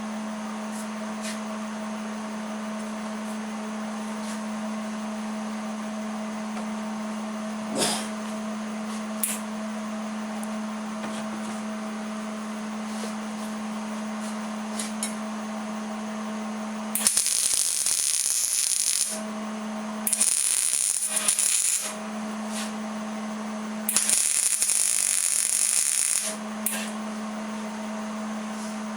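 Three tack welds on a table leg, each a burst of welding-arc hiss about two seconds long, coming one after another in the second half, with a steady hum underneath.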